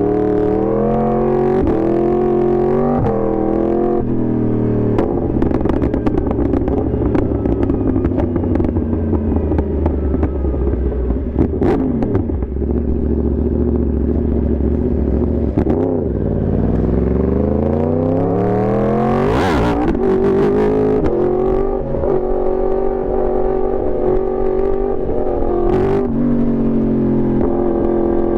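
Yamaha R1 sportbike's crossplane inline-four engine under way, revving up in several quick rising pulls through the gears, then holding a steady pitch. Around the middle the revs fall away and climb back up twice, with a brief rushing surge a while later.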